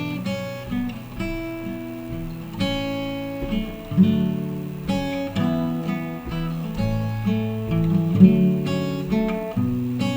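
Acoustic guitar strummed and picked in an instrumental passage between sung verses, moving through a series of chords.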